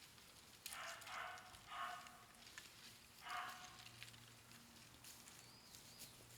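Three short animal calls, faint, about a second apart, followed by a faint steady low hum.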